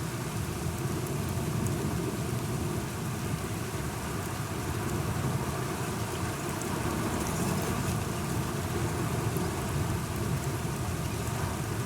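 Steady rain falling, with a continuous low rumble of distant thunder beneath it.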